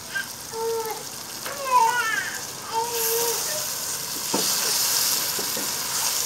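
Beef and bitter gourd (karela gosht) frying with spices in a pot: a sizzle that grows louder about halfway through, with a couple of sharp knocks as it is stirred.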